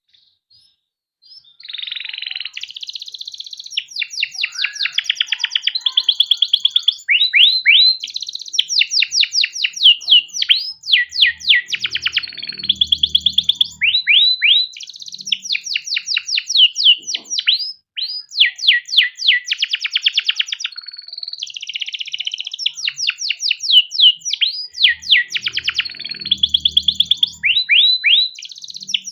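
Canary singing a long, unbroken song of fast rolling trills and rapid runs of repeated downward-sweeping notes, starting about a second and a half in.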